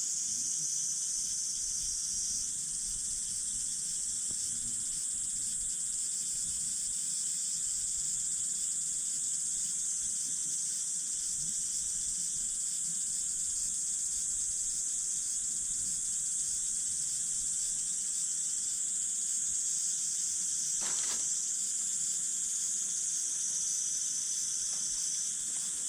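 Campfire burning with a steady high hiss and a single sharp crackle about three-quarters of the way in, with insects trilling in the background.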